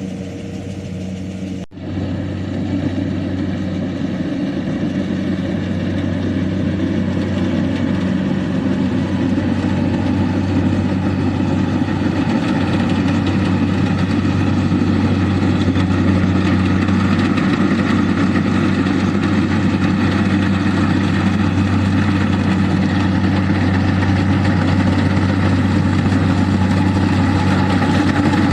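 Engine of a rice harvesting machine running steadily, a constant low hum with a brief break about two seconds in, then gradually getting a little louder.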